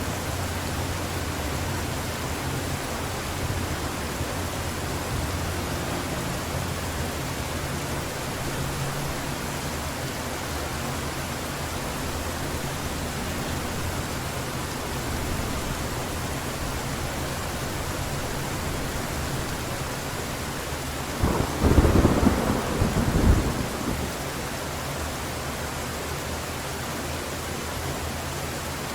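Heavy rain falling steadily, with a loud peal of thunder about three-quarters of the way through that rumbles for about three seconds and dies away.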